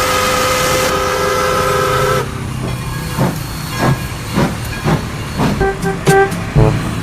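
A multi-tone vehicle air horn sounding a held chord for about two seconds and then cutting off, followed by a run of regular thumps with short horn-like notes near the end.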